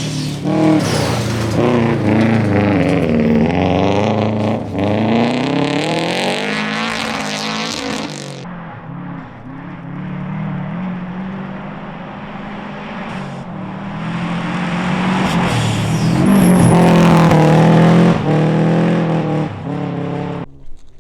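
Rally car engines at full throttle. The pitch rises and drops repeatedly with gear changes as a car passes at speed and then fades. A car comes past loud again about sixteen seconds in, and the sound cuts off suddenly just before the end.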